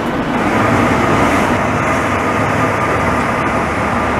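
Israel Railways double-deck passenger train pulling out of the platform: a steady loud rumble of wheels and running gear, with a faint steady high whine.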